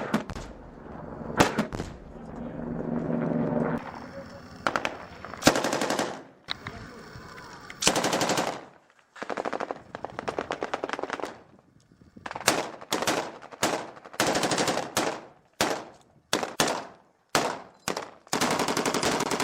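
Automatic-weapon fire in a firefight: repeated bursts of rapid shots, each lasting up to about a second and a half, with short pauses between them.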